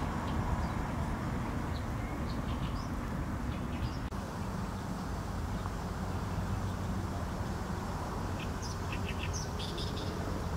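Short, high bird chirps scattered through, bunched together near the end, over a steady low background rumble.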